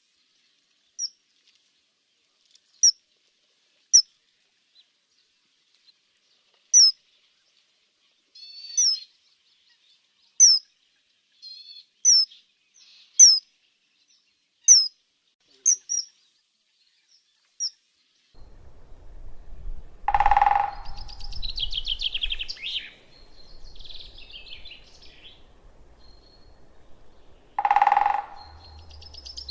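Songbird chirping: single short, sharp notes sweeping downward, repeated every second or two. Past halfway a background comes in with more twittering and two louder, lower calls about eight seconds apart.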